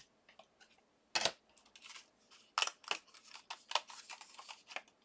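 Die-cutting plates, a metal die and cardstock being handled: a run of irregular clicks, taps and paper crackles, the strongest about a second in.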